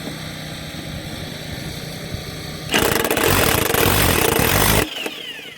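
Electric impact wrench hammering on a riding mower's blade bolt for about two seconds, then stopping suddenly, over the steady hum of the portable generator that powers it.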